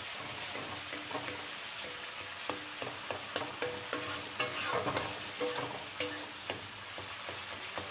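Tomato and spice paste sizzling in oil in a metal kadai while a spatula stirs and scrapes it, with sharp scrapes and knocks of the spatula against the pan, thickest about halfway through. The masala is being fried down (kosha) until it is done.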